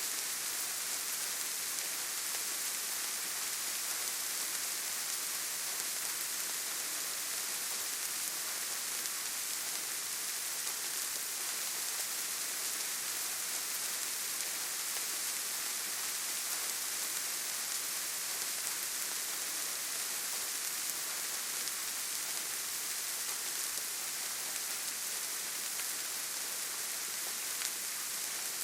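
Steady rain falling on leaves and forest ground: an even, unbroken hiss, strongest in the high end.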